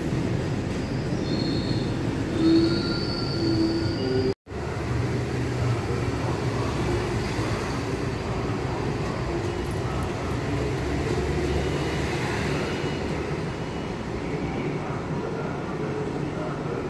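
Container freight train passing close by on the platform track: a steady rumble and clatter of the loaded flat wagons, with high-pitched wheel squeals in the first few seconds. The sound drops out for an instant a little over four seconds in, and then the rumble carries on steadily.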